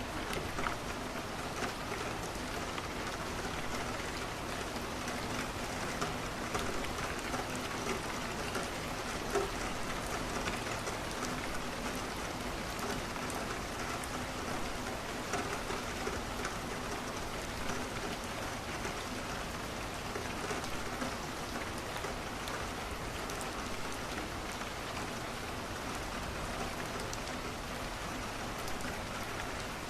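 Steady rain pattering on a window, mixed with the scattered small crackles of a wood fire.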